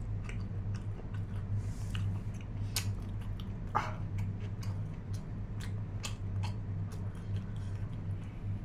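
Close-miked eating sounds of a man chewing mutton: scattered wet clicks and lip smacks over a steady low hum, with one brief squeaky sound about four seconds in.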